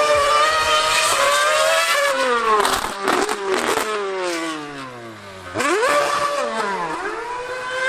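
High-revving racing engine held at high revs, then dropping in pitch through several downshifts, revving sharply up again, and easing off before settling back to a steady high pitch.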